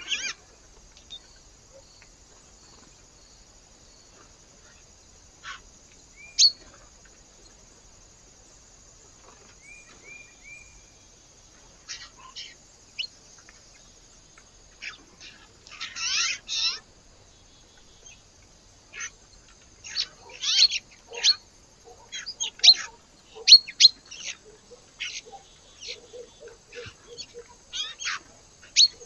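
Small birds giving short, high chirps and call notes, a few at first and coming thick and fast in the second half.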